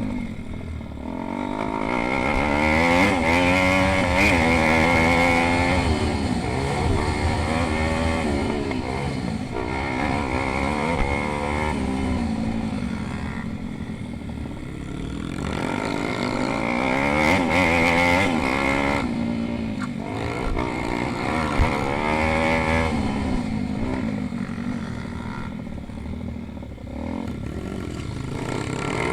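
Pit bike engines racing, their pitch rising and falling again and again as the bikes accelerate and shift or brake, growing louder as they come near and fading as they move off.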